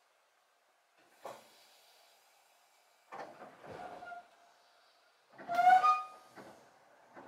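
Chichibu Railway 6000-series electric train pulling away from a stop, heard from inside the car: a clunk about a second in, then brake and running-gear noises, the loudest a short squeal with a few clear tones past halfway.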